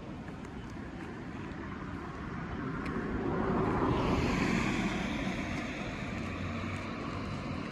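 A car passing by, its engine and tyre noise growing louder to a peak about four seconds in, then easing off.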